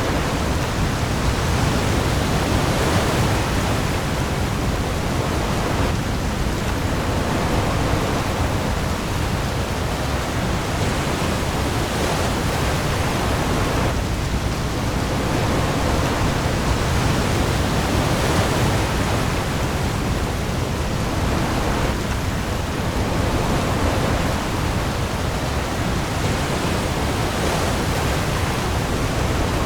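Heavy rain pouring onto the sea surface with waves, a dense steady hiss that swells gently every few seconds over a low rumble.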